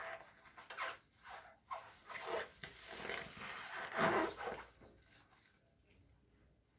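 Squishy, squeaky sounds of wet cleaning: a run of short, irregular squeaks that die away about five seconds in.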